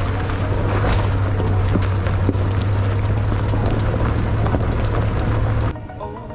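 Pickup truck driving on a rough mountain dirt trail: a steady low rumble with scattered crunches and knocks, cutting off sharply near the end.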